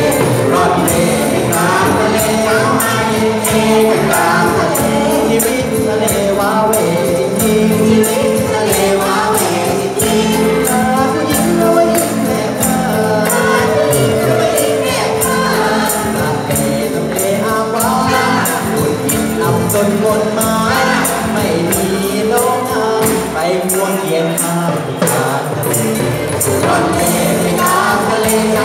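Group of voices singing a Thai ramwong folk-dance song together, with band accompaniment and a steady percussion beat.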